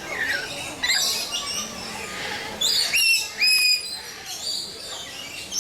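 Many birds chirping and calling together, with two loud whistled calls a little past halfway.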